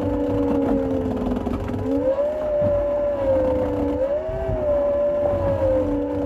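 A vehicle engine running under way, its whine dipping about a second in, then rising and wavering up and down in pitch with the throttle.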